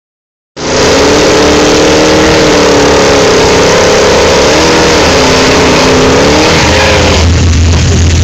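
Muscle-car engines revving hard during a side-by-side burnout at a drag strip start line, the engine note rising and falling. The sound cuts in about half a second in. About seven seconds in it changes to a steady low hum.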